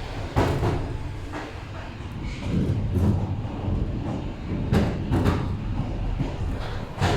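Several sharp knocks and thuds over a steady low rumble inside an electric commuter train car stopped at its terminal, where passengers are getting off.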